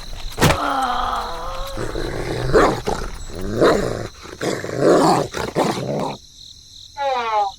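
Animal calls and growl-like sounds: a wavering call about half a second in, rough growling sounds in the middle, and a short falling call near the end.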